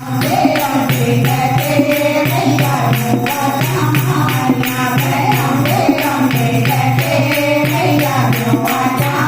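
Devotional Hindu bhajan sung as a kirtan: voices singing together to a steady beat of hand percussion, about three strokes a second, with a steady low drone underneath.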